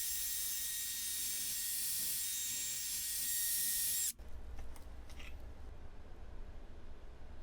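Steady hiss of a pressurized spray, most likely compressed air or a spray can used while cleaning parts. It runs evenly, then cuts off sharply about four seconds in, leaving faint room noise with small ticks.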